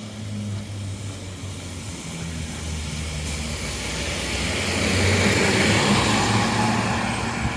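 City bus drawing near along a wet street, its engine running low and its tyres hissing on the wet road, growing louder to a peak about five or six seconds in as it slows by a bus stop.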